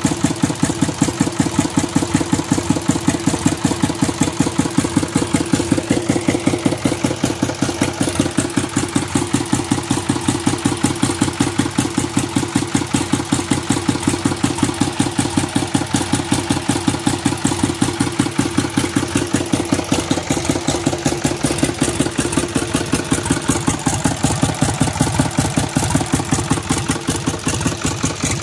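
Old three-cylinder diesel tractor engine idling steadily, with an even, rhythmic exhaust beat.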